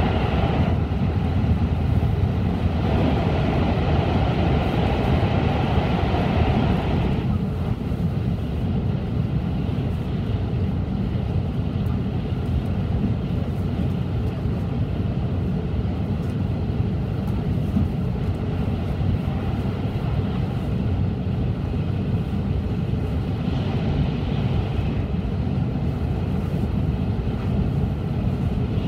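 Cabin noise of an N700-series Shinkansen running at speed: a steady low rumble. A louder tunnel roar drops away about seven seconds in as the train leaves a tunnel, and the roar swells briefly again a few seconds before the end.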